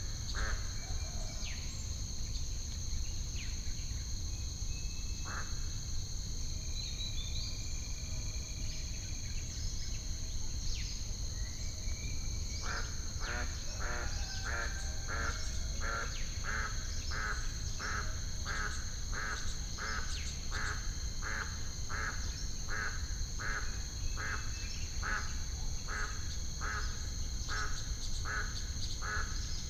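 Lake birds calling in an added nature ambience: scattered calls at first, then from about twelve seconds in a long run of evenly spaced calls, about one and a half a second, over a steady low rumble and a constant high-pitched ringing.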